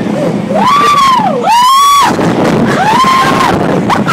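Hurricane simulator blower making a loud rush of wind noise on the microphone, with girls shrieking "whoa" in several high, rising-and-falling wails over it.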